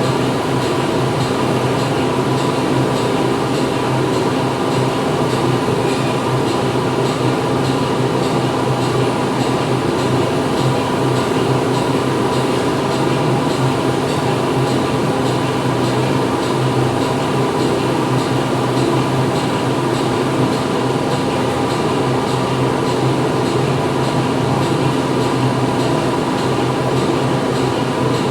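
Factory machinery running steadily: a dense, even mechanical drone with a low hum and several steady tones, and faint regular ticking on top.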